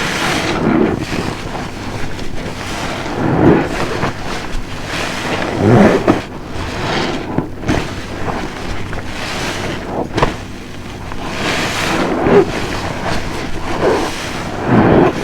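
Large car-wash sponge full of soapy dish detergent being squeezed and released by hand, wet squelching and foamy hissing that swells and fades with each squeeze, the strongest squeezes a few seconds apart.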